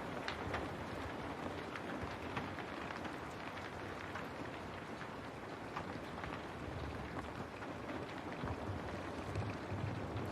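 Steady rain on a window pane, a constant patter with many individual drops ticking against the glass.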